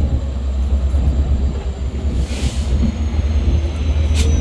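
Steady low rumble of a train at a railway station platform, with a short hiss about halfway through and a sharp click near the end.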